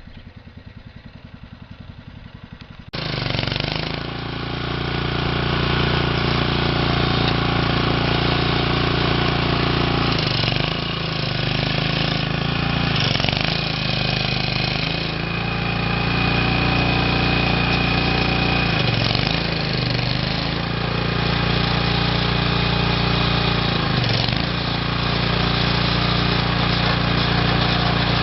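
A tractor engine idling with a quiet, rapid low pulse, then from about three seconds in running much louder and steadier, its pitch dipping and rising several times.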